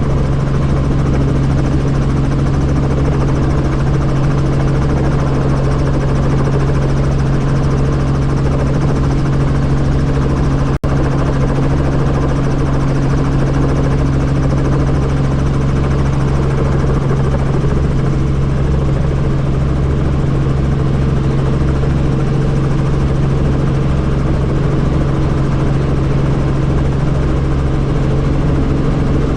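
Helicopter's turbine and rotor running steadily in flight, a loud constant drone with a low pulsing rumble, heard from on board. The sound drops out for an instant about eleven seconds in.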